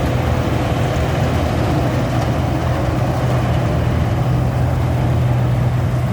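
INARI rice harvesting machine's engine running steadily with a constant low drone.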